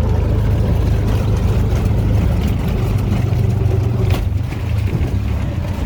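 Engine and road noise from inside a moving vehicle: a steady low rumble, with one short knock about four seconds in.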